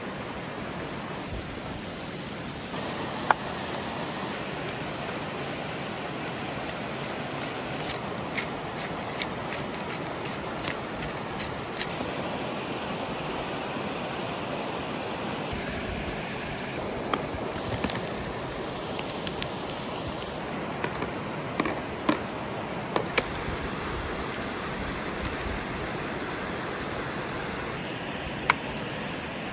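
Sausages sizzling over a campfire: a steady hiss with scattered sharp pops and crackles, more of them in the second half.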